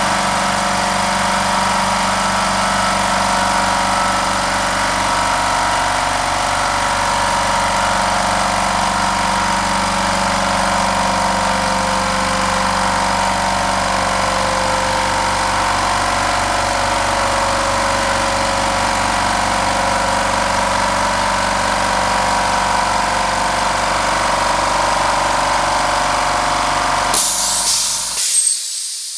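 HBM 6 PK 150-litre low-noise oil-free piston air compressor running steadily as it pumps up its tank, with a fast low pulsing under a hum. About 27 seconds in the motors stop suddenly, with a short burst of hissing air and a couple of knocks, and the sound dies away.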